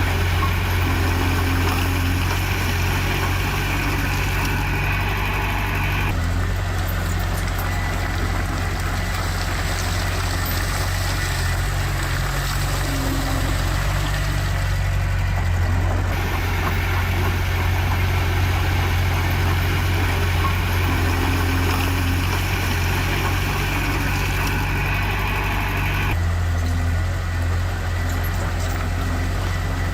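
Heavy diesel engine of earth-moving machinery running steadily with a low hum. The higher hiss above it shifts abruptly three times.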